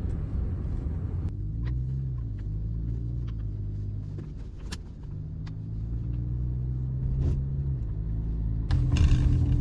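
Car interior while riding: steady engine and road noise, the engine note dropping and rising a few times with speed, with a few light clicks. Near the end the road and wind noise gets louder.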